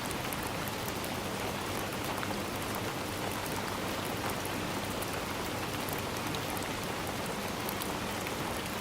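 Steady rain falling through trees, a constant hiss of water with many small drop ticks.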